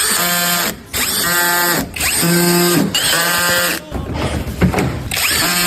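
Power tool run in repeated short bursts of just under a second, each starting with a quick rising whine, while the worn lower control arm ball joint is being replaced.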